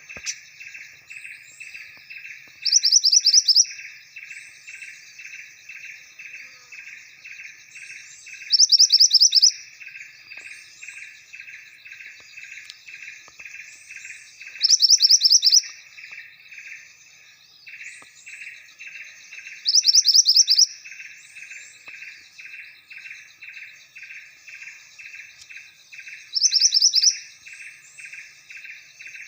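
A songbird calling: a loud, quick trill of high notes, under a second long, repeated about every six seconds, five times. Beneath it runs a steady pulsing chirp of about three beats a second, like an insect.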